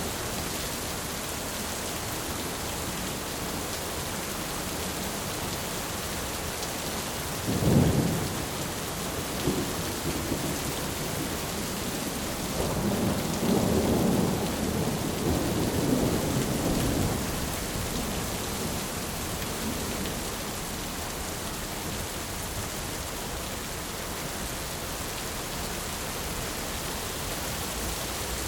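Thunderstorm: steady rain hissing throughout, with a sharp thunderclap about a quarter of the way in followed a few seconds later by a longer roll of rumbling thunder that fades out.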